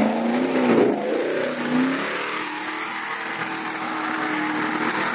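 An off-road 4x4's engine revving under load in deep mud, its pitch dropping and rising over the first two seconds, then running steadier and a little quieter.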